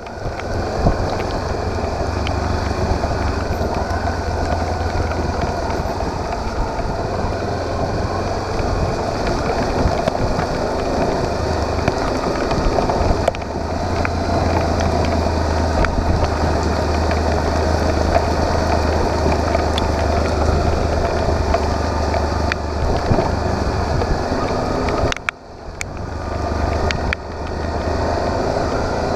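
Motorcycle engine running steadily while riding, with a brief drop in level about 25 seconds in.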